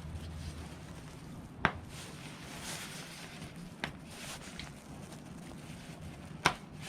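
Sharp knocks and clicks of tools and metal parts being handled while working on a motorcycle engine's clutch cover, two louder ones about a second and a half in and near the end, with light rustling between.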